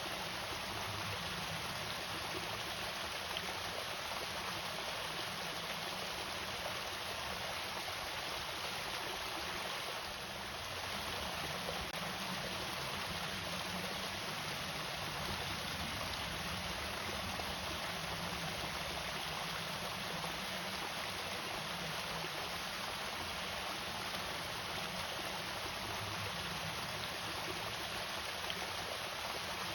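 Water falling and flowing steadily over a small irrigation-channel waterfall, an even rushing sound with no pauses.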